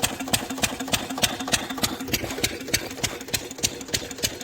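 8 HP farm engine running steadily, a sharp regular knock about three times a second over a steady hum.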